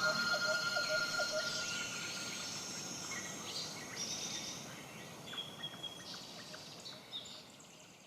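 Many birds chirping and calling over a faint outdoor hiss, a wild bird soundscape that slowly fades down.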